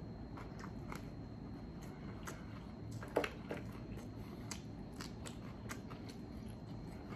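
Faint, close-up chewing and clicking mouth sounds of someone eating an extra-crispy chicken wing flat and gnawing the meat off the bone, with one short louder mouth sound about three seconds in.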